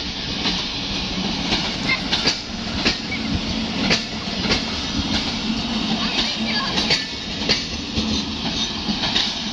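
Passenger train coaches rolling past close by: a steady rumble of wheels on track, with repeated sharp clicks as the wheels cross rail joints.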